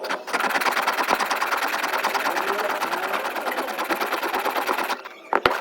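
A small machine running with a fast, even rattle, stopping abruptly about five seconds in, followed by a couple of sharp clicks.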